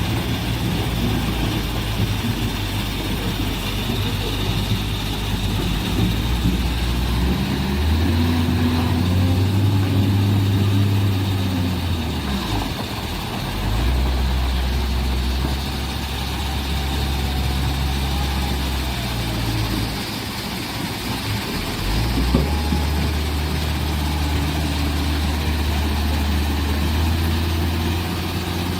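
Large excavator's diesel engine running, its low hum stepping up and down in pitch several times as the machine works.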